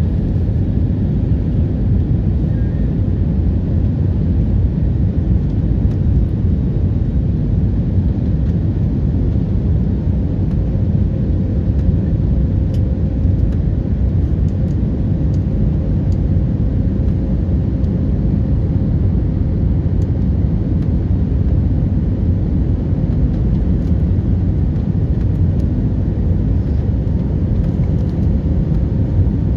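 Airliner noise during a landing: a loud, steady low rumble, with a faint steady hum joining about ten seconds in.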